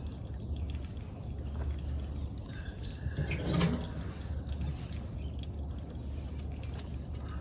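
A short bird chirp about three seconds in, over a steady low rumble.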